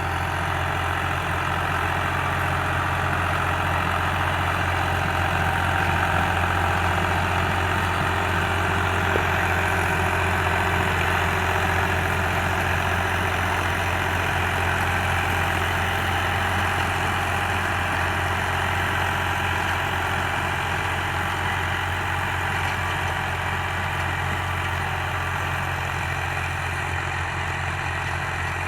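New Holland Ghazi tractor's diesel engine running steadily while driving a rotavator through dry soil, with a slight swell in level a few seconds in.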